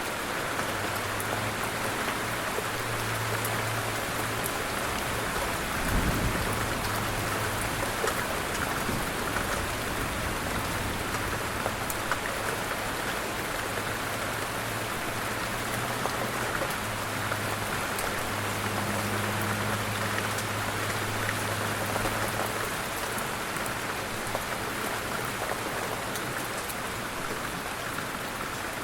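Light rain falling steadily, an even wash of drops. A brief low thump sounds about six seconds in, and a faint low hum comes and goes underneath.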